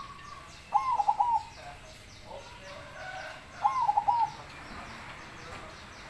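Zebra dove (perkutut) cooing its song twice, about three seconds apart, each phrase a quick run of clear notes. Small birds chirp faintly in the background.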